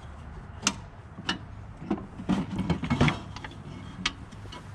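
Irregular clicks and knocks of hand tools working at the clamps on old fuel-line tubing, with a busier patch of clatter about two to three seconds in.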